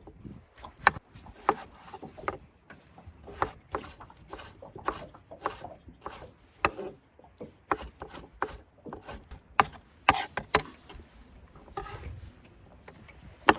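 Irregular sharp knocks and clicks, one or two a second, from a knife working on a cutting board during food preparation.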